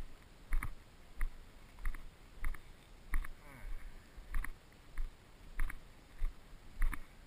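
Footsteps of a person walking through field cover at an even pace, about a step every 0.6 seconds. A faint, brief voice-like sound rises near the middle.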